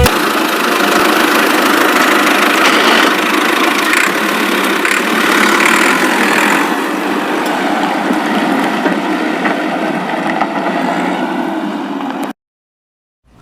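Steady engine-like running noise with no deep bass, cutting off suddenly about a second before the end.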